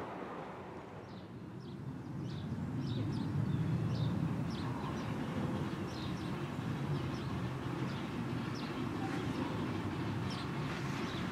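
Birds chirping in short, high, falling notes, over a low rumble from the miniature steam train approaching in the distance.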